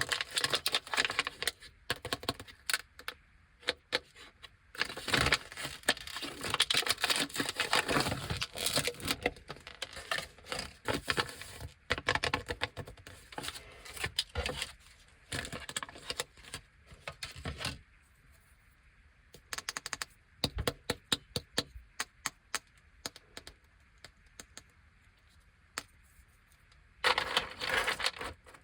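Crinkly plastic wrappers of Anpanman Pero Pero Choco chocolate lollipops being handled and torn open: dense crackling and sharp clicks, thinning to scattered clicks after the midpoint, then a short burst of crinkling near the end.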